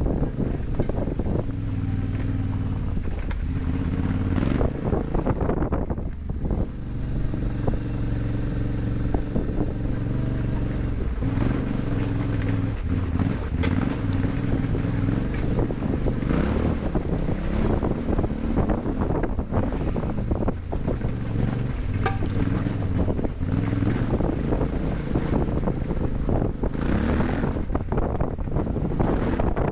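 Yamaha Ténéré 700's parallel-twin engine through an Akrapovic exhaust, under way with its pitch rising and falling as the throttle opens and closes and gears change, with wind buffeting the microphone.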